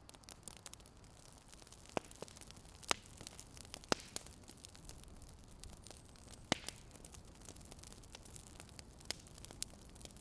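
Fire crackling: irregular sharp pops and snaps over a steady hiss.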